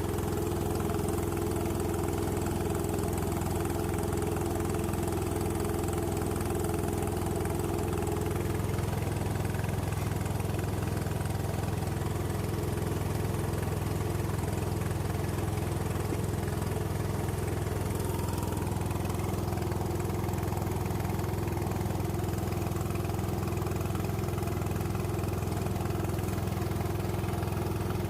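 An engine idling steadily with an even, unchanging drone.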